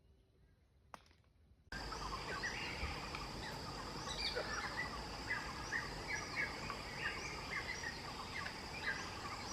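Near silence with one click, then a dense chorus of many birds starts suddenly. Short chirping calls repeat over and over above a steady high-pitched whine.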